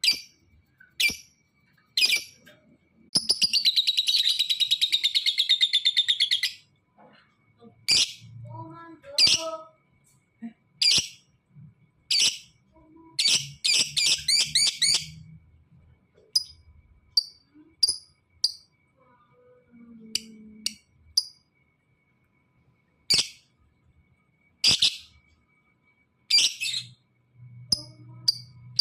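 Lovebird calling in the vigorous 'fighter' style: sharp, shrill single chirps throughout. About three seconds in comes a long, rapid chattering trill lasting about three seconds (the prized long 'ngekek'), and a second rapid run follows midway.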